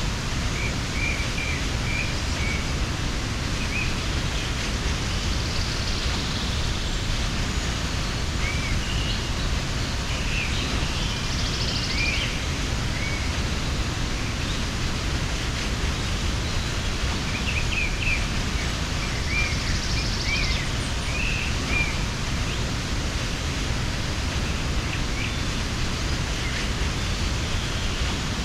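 Steady rush of a mountain waterfall, with small birds chirping briefly here and there, in clusters near the start, around ten to thirteen seconds in and again around eighteen to twenty-two seconds in.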